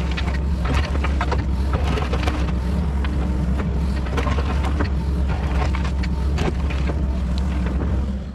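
Kobelco SK140 tracked excavator's diesel engine running steadily, with frequent sharp clicks and knocks from the machine at work. It cuts off abruptly at the end.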